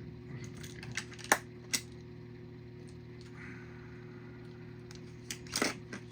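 Small die-cast toy cars clicking and clacking as they are picked up and handled: a few separate sharp clicks, with a short cluster near the end, over a steady low hum.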